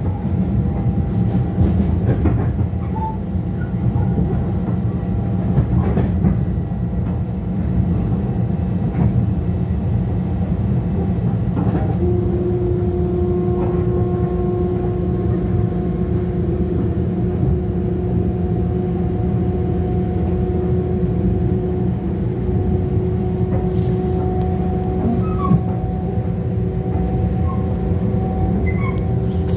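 Inside a Long Island Rail Road electric commuter train running at speed: a steady rumble of wheels on rails with occasional faint knocks. A steady humming tone joins the rumble about twelve seconds in and holds.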